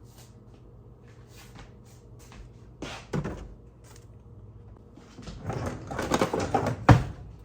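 Kitchen handling noises: a knock about three seconds in, then a run of clattering knocks and rattles that ends in one sharp bang near the end.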